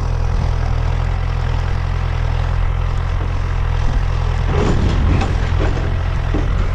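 Tractor engine running steadily, with a few knocks in the second half.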